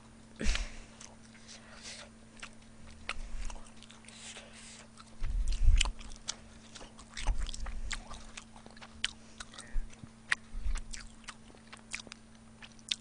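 Close-miked eating: wet chewing and biting with many short mouth clicks and smacks as a piece of spicy meat with melted mozzarella is chewed. A faint steady low hum runs underneath.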